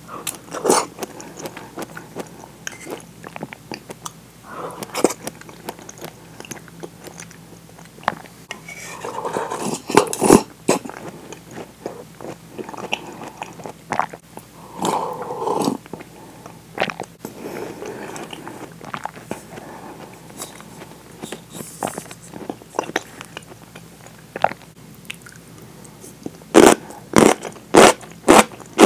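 Close-miked chewing and wet mouth sounds of eating potato and onion from miso soup with chopsticks. Near the end comes a run of loud, sharp clicks.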